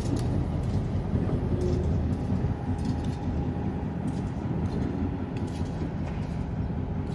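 Diesel switching locomotive running with a steady low rumble as it slows to a stop.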